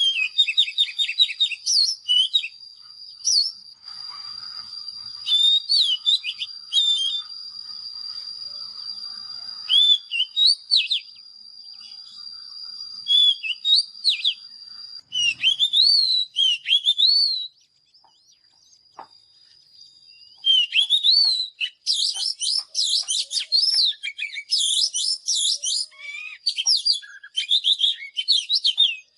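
Oriental magpie-robin singing varied whistled phrases of rising and falling notes. The song lulls briefly past the middle, then comes back as a fast, dense run of notes. A steady high tone runs under the song through the first half.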